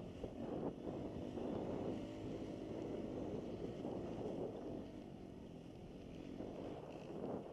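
Dirt bike engine running, heard muffled under wind buffeting on the camera's microphone.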